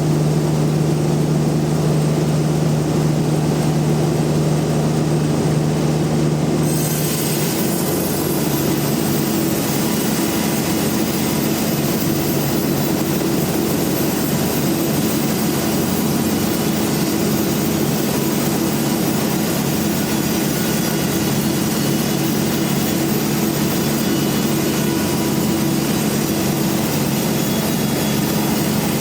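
Large band sawmill running steadily with a low machine hum. About seven seconds in the pitch of the hum shifts and a steady hiss sets in, then holds.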